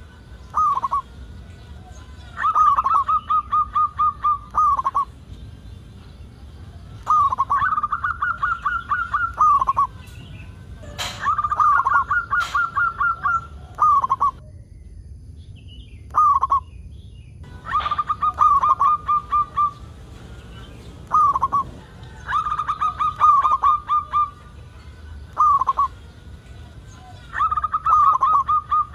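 Zebra dove (perkutut) cooing: phrases of quick staccato coos, each a couple of seconds long, repeated every few seconds.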